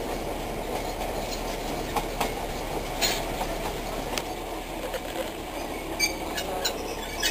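Darjeeling Himalayan Railway narrow-gauge toy train running along the track: a steady rumble of the coaches, with scattered sharp clicks of the wheels over the rails.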